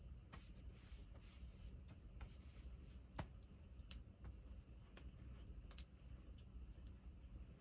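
Faint, scattered small clicks and taps, about seven of them at irregular spacing, over a low steady hum.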